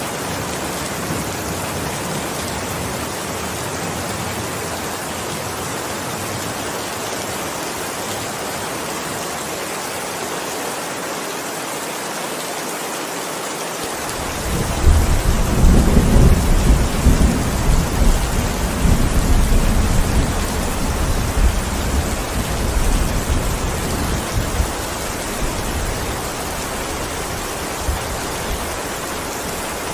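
Steady heavy rain, with a long rolling rumble of thunder that breaks in about halfway through and slowly fades away.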